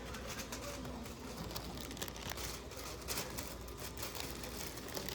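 Light rustling and crinkling, with scattered small irregular clicks and taps, over a low steady background hum.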